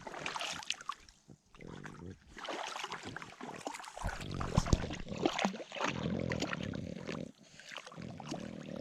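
Footsteps wading through swamp water, sloshing and splashing unevenly with each step.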